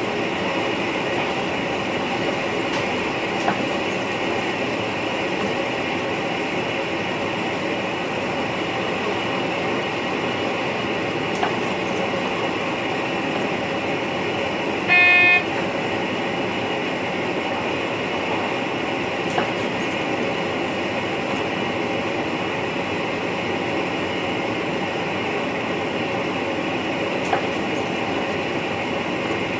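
Steady running noise inside the cab of a VIRM double-deck electric train under way, with a faint click roughly every eight seconds. About halfway through, one short, loud pitched tone sounds for about half a second.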